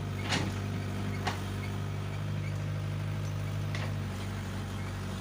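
Heavy diesel engine running steadily at a low, even speed, with three short sharp knocks during the first four seconds.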